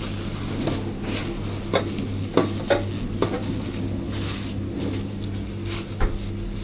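Food-prep handling sounds: utensils knocking and scraping against containers, a handful of sharp clicks, over a steady electrical hum from the stall's equipment.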